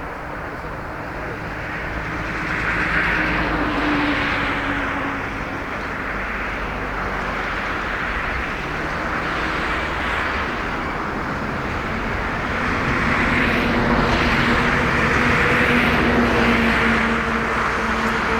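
Freight train hauled by an EF65 electric locomotive running past: a continuous rolling rumble of wheels on rail with a faint steady hum, swelling in waves and growing louder in the second half.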